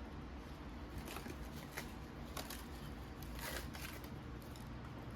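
Faint rustling and a few soft ticks of light handling noise over a low steady hum.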